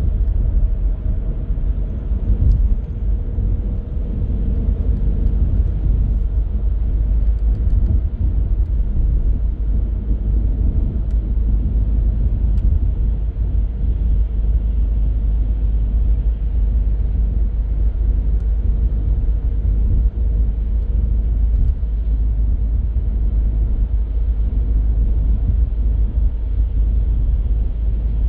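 Car driving at city speed: a steady low rumble of engine and tyres on the road.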